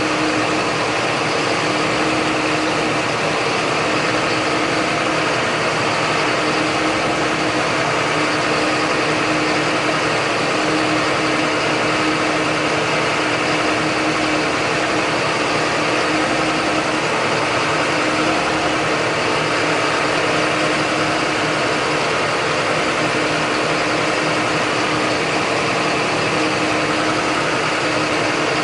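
John Deere 8100 tractor's six-cylinder diesel running at a steady speed while pulling a John Deere 466 round baler, a constant drone with a steady hum and no change in pitch.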